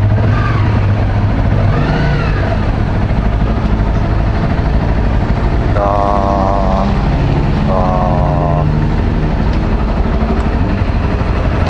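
Trail motorcycle engine idling steadily. Two short held tones, each about a second long, come about six and eight seconds in.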